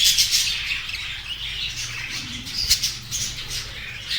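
A colony of budgerigars chattering and squawking, many birds at once, with a sharp click about two and a half seconds in.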